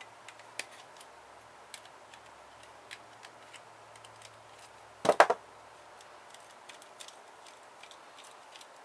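Scattered light clicks and ticks of small printer parts and hand tools being handled during disassembly, with a louder clatter of several quick hits about five seconds in.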